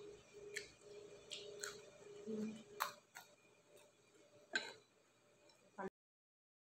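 Quiet eating sounds: mouth clicks and smacks from chewing, with two sharper clicks, one nearly three seconds in and one about a second and a half later. The sound cuts out completely shortly before the end.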